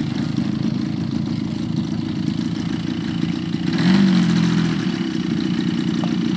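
Giant-scale RC airplane's engine running steadily, swelling louder for a moment about four seconds in and then settling back.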